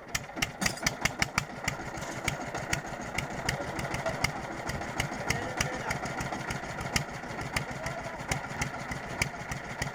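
Stationary lift engine starting up and running, with a quick, regular knock over a steady hum.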